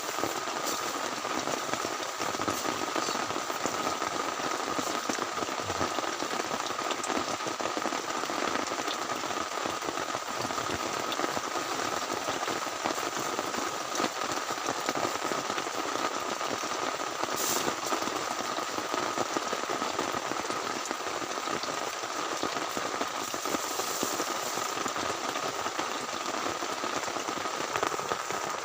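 Heavy rain falling steadily, a dense, even patter of drops that does not let up.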